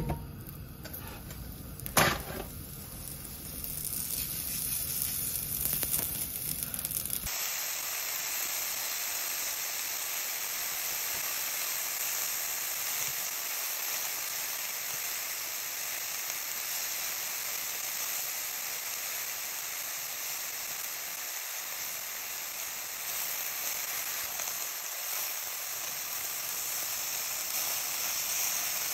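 Sliced porcini (king bolete) mushrooms sizzling in a cast-iron skillet, a steady hiss. About two seconds in there is one sharp knock, and the sizzle starts soon after.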